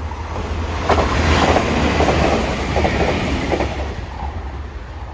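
Northern Ireland Railways diesel multiple unit passing close by. It rumbles steadily, its wheels clicking over the rail joints several times as it goes past, loudest from about a second in, then easing off.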